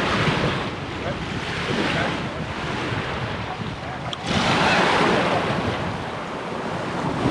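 Small Gulf of Mexico waves washing onto the beach, with wind buffeting the microphone. The wash swells louder about four seconds in.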